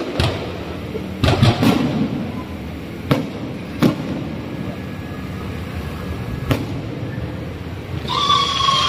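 Aerial firework shells bursting overhead: a series of sharp bangs at uneven intervals, three in quick succession about a second and a half in, over a steady rumbling background.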